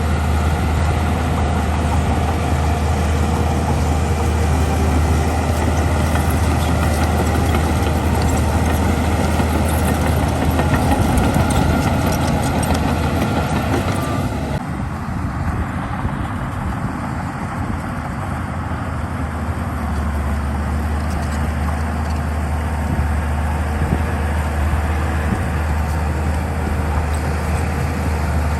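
Diesel engine of a heavy earthmoving machine running steadily with a deep hum. About halfway through, the higher clatter drops away suddenly and it runs quieter.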